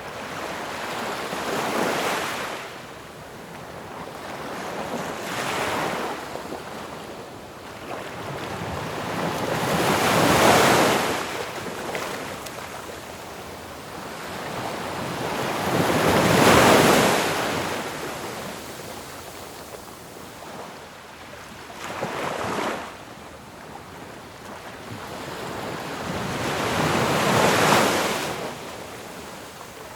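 Ocean waves crashing on a shore: six surges of surf that each build to a peak and wash back, a few seconds apart, the biggest two near the middle.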